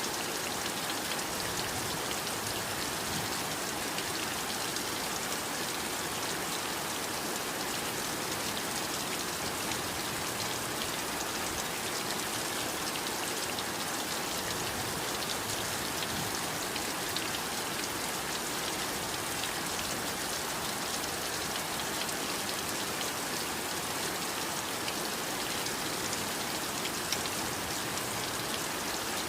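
Heavy rain falling steadily: a continuous even hiss with a fine patter of individual drops.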